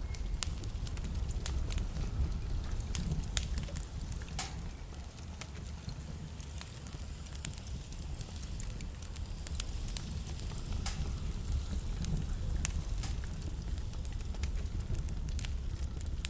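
Wood fire burning in a fireplace: a steady low rumble of flames under frequent irregular crackles and sharp pops from the burning logs.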